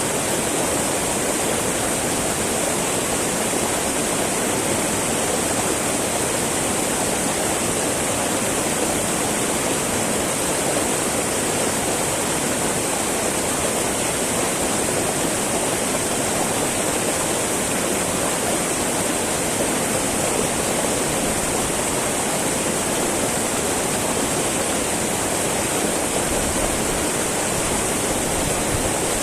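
Small mountain river babbling and rushing steadily over rocks, an even, unbroken water sound.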